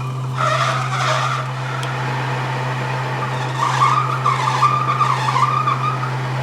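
A machine tool running with a steady low hum while metal is cut, the cutting giving a wavering high squeal that grows louder a little past halfway.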